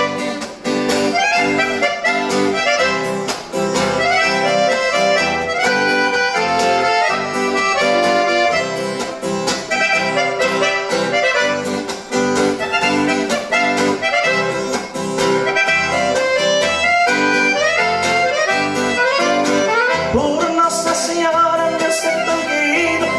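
Instrumental break in a Brazilian country song: an accordion plays the melody over a steady strummed rhythm accompaniment, with no singing.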